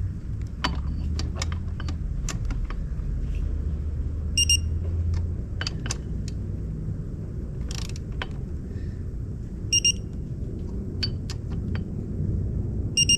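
Short bursts of electronic beeping, three times, from a digital torque wrench signalling that a QR25DE connecting-rod cap bolt has reached its 22 ft-lb setting, with clicks and knocks of the wrench on the bolts in between.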